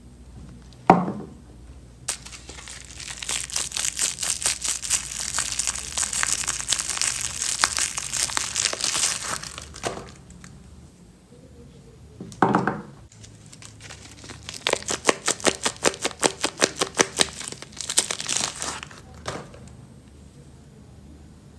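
Soap bar wrappers crinkling and tearing as they are unwrapped by hand, in two long stretches of dense crackling. A sharp knock comes about a second in and another near the middle.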